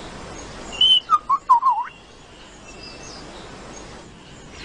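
A bird calling in a quick burst of short whistled chirps about a second in. A high note is followed by several quick wavering notes, all over in about a second, against a steady faint background hiss.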